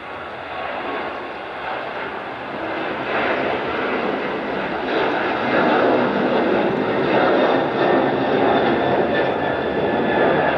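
Jet airliner's engines at takeoff power, a steady roar that grows louder over the first several seconds as the aircraft comes nearer, then holds at its loudest.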